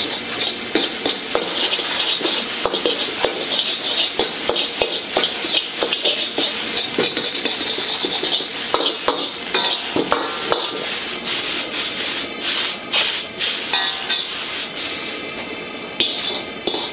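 Scrambled eggs sizzling in a wok, with a metal spatula scraping and clacking against the pan as the eggs are stirred and broken up.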